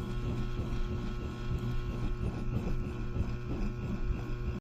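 Air-starved wood stove fire puffing like a steam locomotive taking puffs: it chokes for lack of air, sucks air back in and chuffs out the air intake again, a quick, uneven low chugging over a steady low hum.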